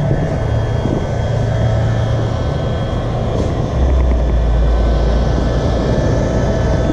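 A machine's motor running steadily with a low rumble and a steady whine. The rumble deepens and gets louder about four seconds in, and the sound stops abruptly at the very end.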